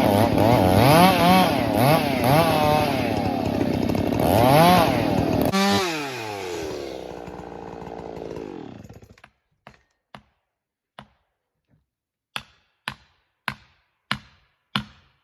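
Chainsaw revving in repeated surges as it cuts firewood, then the throttle is let off about five seconds in and the engine winds down and dies away. Then comes a series of sharp knocks, sparse at first and then about two a second.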